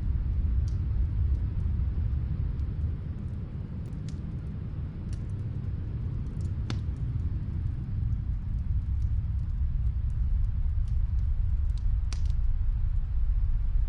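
Snowstorm wind with a deep, steady rumble that eases slightly and builds again, with sparse faint crackles and pops of a wood fire burning in another room.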